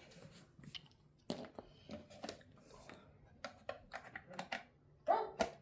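Scattered light clicks and taps of plastic parts and a power cord being handled, irregular and without any rhythm.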